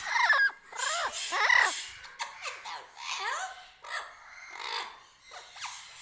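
Birds calling: a string of short squawks and chirps that slide up and down in pitch, two louder ones at the start and about a second and a half in, then softer calls.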